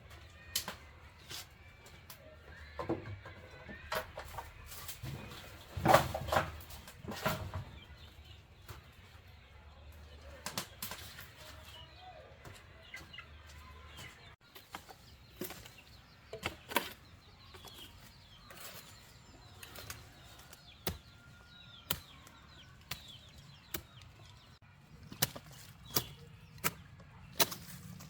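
Chickens clucking, with scattered sharp clicks and knocks throughout, loudest about six seconds in.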